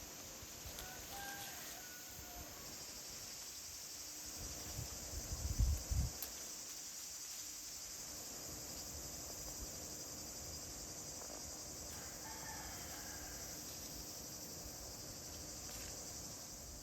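Steady high-pitched chorus of crickets or similar insects, with a short bird call about a second in and another near twelve seconds. A brief low rumble comes about five seconds in.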